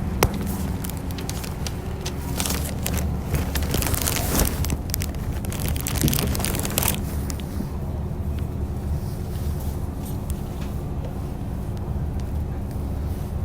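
Diesel railcar engine running steadily with a low hum, with a spell of crackling and hissing noise from about two and a half to seven seconds in.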